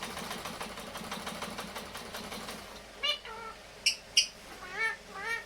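A fast, even rattling noise for the first couple of seconds, then short calls from a pet parrot: two brief sharp high chirps and several short calls that rise and fall in pitch.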